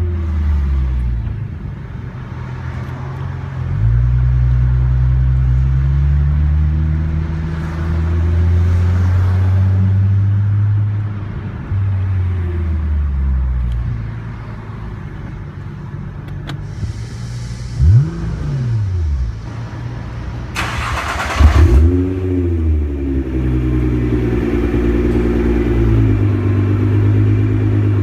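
Nissan GT-R's twin-turbo V6 with a catless downpipe, resonated midpipe and SBD Race Spec exhaust, running with the engine speed changing throughout. There are two quick rev blips in the second half, and between them a short loud hiss.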